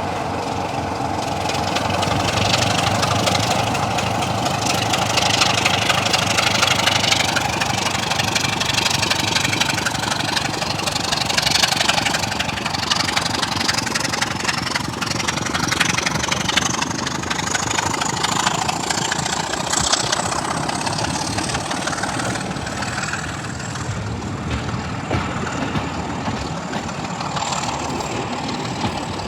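Diesel train engine running steadily, with a high whine that slowly rises in pitch through the middle of the stretch and then holds.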